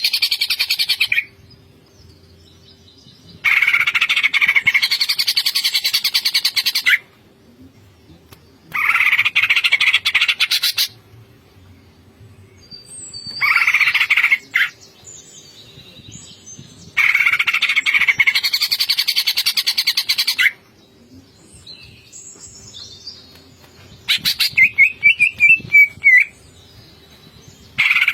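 Cucak ijo (green leafbird) singing in loud bursts of rapid, chattering song, packed with mimicked phrases ('full isian'). About six bursts of two to three seconds each, with short pauses between them; the burst a little past the middle is a fast run of repeated notes.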